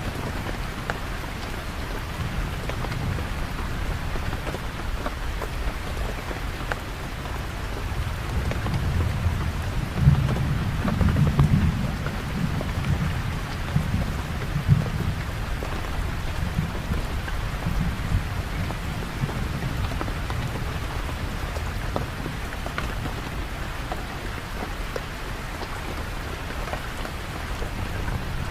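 Steady heavy rainfall with a low rumble of thunder that swells and rolls for several seconds around the middle, then fades back under the rain.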